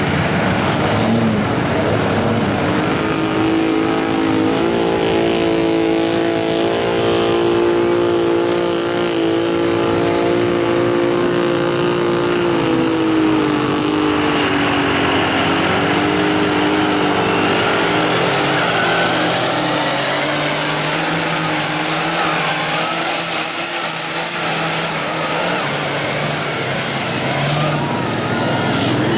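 Mud truck engine running hard at high, steady revs for several seconds, then its pitch sags and fades about halfway through; after that a high whine climbs and holds until near the end.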